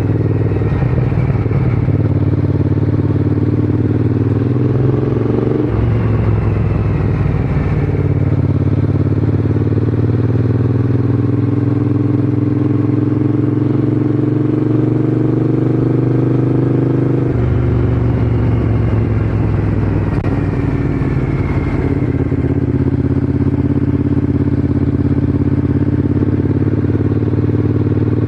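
Triumph Scrambler 900's parallel-twin engine running under way. The engine note climbs gradually between several abrupt changes in pitch, as with gear changes, about 6, 8, 17 and 22 seconds in.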